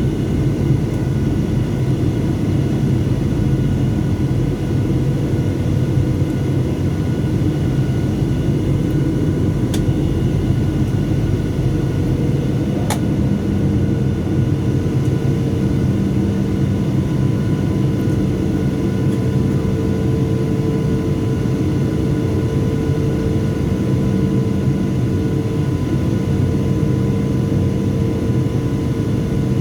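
Steady drone of a Boeing 737-700 with its engines running, heard inside the passenger cabin. There is a short click about halfway through, after which a steady hum joins the drone.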